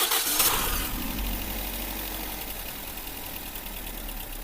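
Car engine idling with a misfire, loud for the first half second and then settling into a steady low running with faint uneven ticks.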